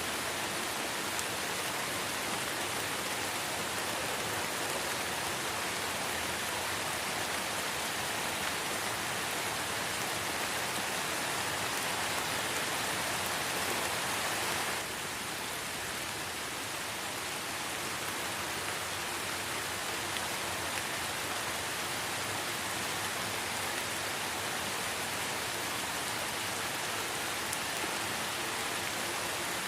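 Light rain falling steadily in a forest, an even hiss of many drops. About halfway through the sound steps down slightly and turns a little duller.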